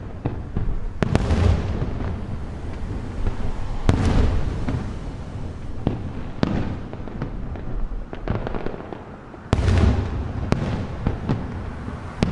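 Aerial fireworks bursting overhead: a string of sharp bangs, each followed by a rolling echo, with smaller crackles between the big booms.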